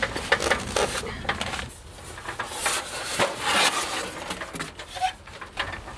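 Rustling, scraping and light knocks of packaging being handled as a boxed gas fan heater is unpacked by hand, in a run of short irregular sounds.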